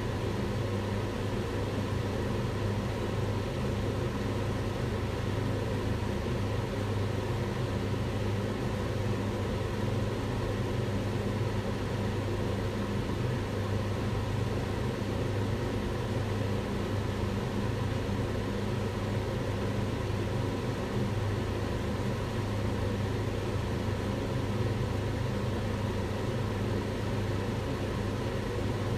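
Kitchen range hood running steadily: an even fan rush with a low motor hum and a few steady tones.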